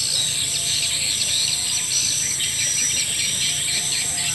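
Recorded swiftlet calls: a dense, unbroken chatter of many overlapping chirps over a steady high-pitched hiss. It is a lure sound played in swiftlet farming to draw swiftlets into a nesting house.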